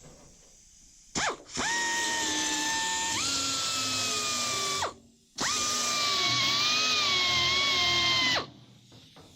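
Electric grinder grinding down tack welds on a sheet-metal rust repair. A short blip about a second in, then two runs of a few seconds each with a steady whine, with a brief stop between them. The pitch steps up partway through the first run and wavers through the second.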